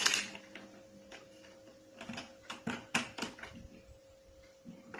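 Plastic caster wheel being handled and fitted against a vacuum cleaner's plastic base: a scatter of short knocks and clicks, bunched between about two and three and a half seconds in, over a faint steady hum.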